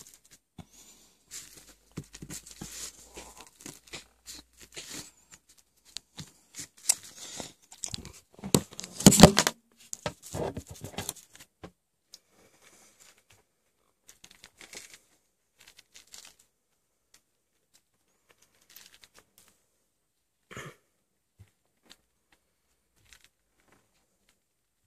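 Tearing and crinkling sounds from bread and wrapping being handled while a falafel sandwich is made, in irregular short rustles; the loudest burst is about nine seconds in, and only a few faint rustles and clicks follow in the second half.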